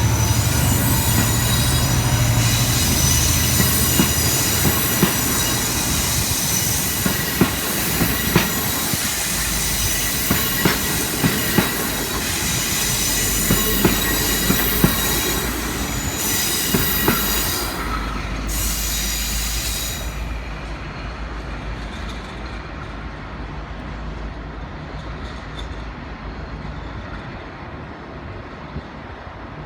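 V/Line N-class diesel-hauled passenger train departing: a low locomotive drone at first, then the carriages roll past with wheel squeal and repeated sharp clicks over rail joints. The squeal cuts off about twenty seconds in, and the train fades into a receding rumble.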